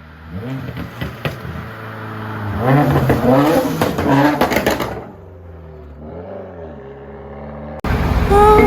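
Car engine being revved: a short blip, a long rev with sharp pops from the exhaust, then a smaller blip. Music cuts in abruptly near the end.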